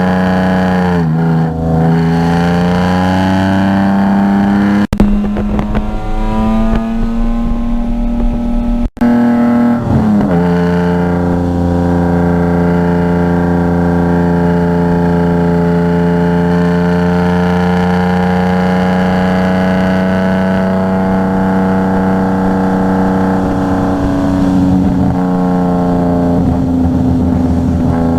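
Car engine running under load on track, its note dipping and recovering near the start, then held steady and climbing slowly for a long stretch. The sound cuts out sharply for an instant twice, about five and nine seconds in.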